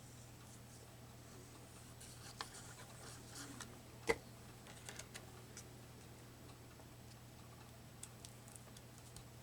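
Paper pieces being handled at a craft table: faint rustles and small clicks and taps, with one sharper click about four seconds in, over a steady low hum.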